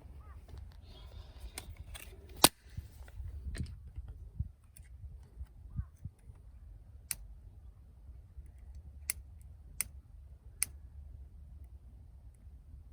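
Wood fire burning: a few sharp pops at irregular intervals, the loudest about two and a half seconds in, over a steady low rumble.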